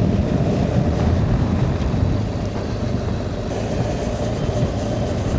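BMW R 1250 GS boxer-twin motorcycle running steadily while being ridden over a gravel road, with a dense low rumble of engine and road noise and a faint steady hum throughout.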